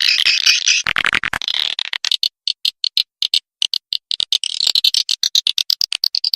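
Swiftlet lure call: swiftlets twittering in rapid, high-pitched chirps and clicks that overlap densely, with a quick rattle of clicks about a second in. It is the call-and-roost sound played to draw swiftlets into a nesting house.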